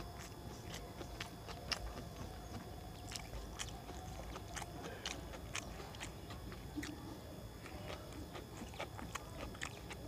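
A person chewing mouthfuls of rice and curry eaten by hand, the mouth making short, sharp clicks at an irregular pace of about two or three a second.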